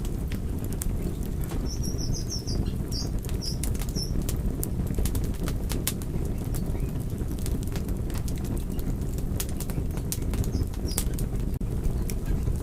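Wood fire burning, with frequent sharp crackles and pops over a steady low rumble of flames. A few short high squeaks come about two to four seconds in.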